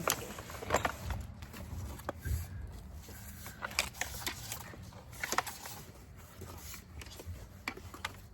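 Child car seats being handled and shifted: scattered plastic clicks and knocks with rustling and scraping.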